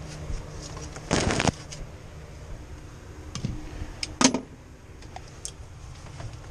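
Hand work on metal parts: a short scraping rasp about a second in, then a few sharp metallic clicks and a clank about four seconds in, over a steady low hum.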